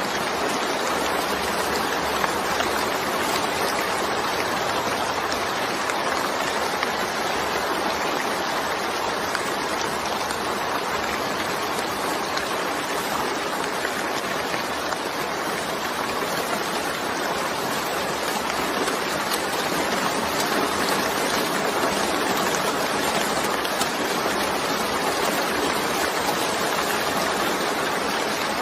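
Steady rain falling, an even hiss with no thunderclaps or other sudden sounds.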